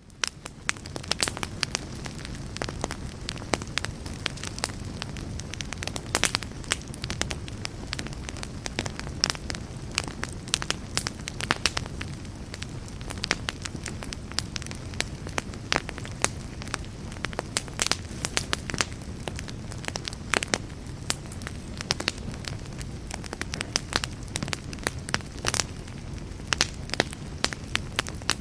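Wood campfire burning steadily, with a low steady rush of the flames and frequent sharp crackles and pops at irregular intervals.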